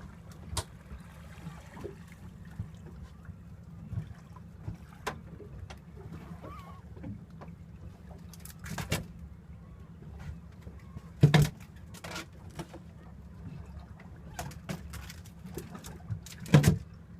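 Boat engine running steadily, with scattered clicks and knocks of handling aboard and two loud thumps, about eleven and sixteen and a half seconds in.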